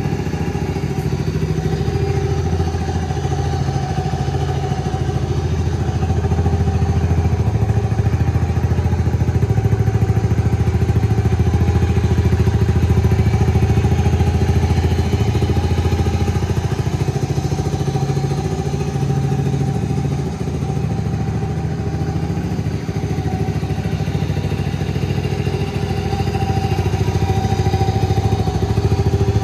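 Honda Super Cub 50 (C50) air-cooled four-stroke single idling through an aftermarket Out-standing full exhaust, running steadily with its speed shifting slightly now and then.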